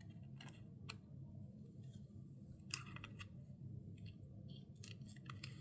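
Faint, scattered snips and clicks of small scissors trimming paper and tape edges, with light paper handling, over a low room hum.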